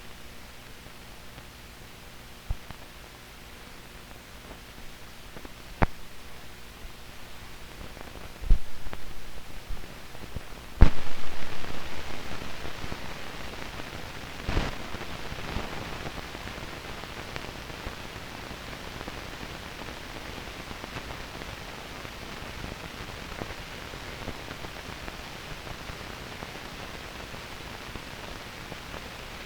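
Steady hiss of an old film soundtrack, broken by a few sharp pops, two of them loud and dying away over a second or two.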